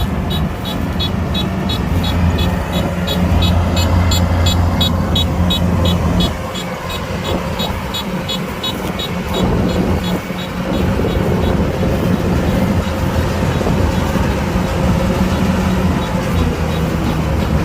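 Kubota DC-105X combine harvester's diesel engine running steadily, dropping in level for a few seconds in the middle, with short high-pitched beeps repeating about four times a second.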